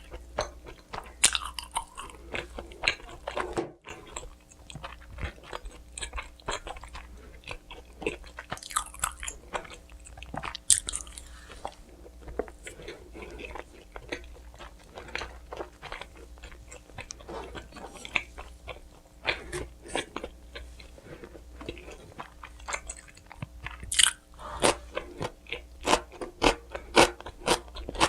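Close-miked biting and chewing of pizza: crunching bites and wet chewing smacks in an irregular stream, getting busier near the end.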